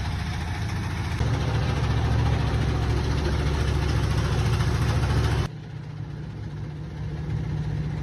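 An engine running steadily with a low, even throb. The sound changes abruptly about five and a half seconds in, as at a cut between shots.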